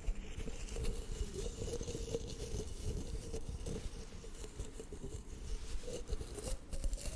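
Close-miked ASMR handling sounds: faint, irregular scraping, crinkling and tapping as something stuffed into a small jar is pulled out.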